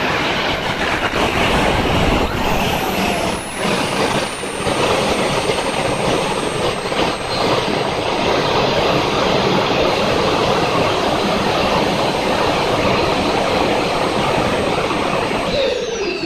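RAM-1000 small gas turbine engine running at speed: a loud, steady rushing roar with a thin high whine that slides down a little in pitch in the first few seconds and then holds. Just before the end a lower whine starts falling steeply as the engine begins to spool down.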